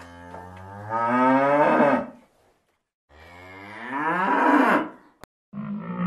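A cow mooing twice: two long moos of about two seconds each, each rising in pitch and growing louder toward its end. A click and then a different animal's call start just before the end.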